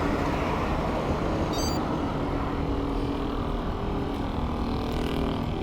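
A steady low rumble with a faint steady hum, like motor traffic, and a brief high chirp about a second and a half in.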